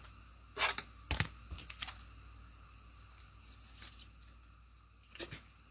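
Trading-card pack being torn open and the cards handled: a few short crinkles and clicks of the foil wrapper and cards, with a soft rustle near the middle.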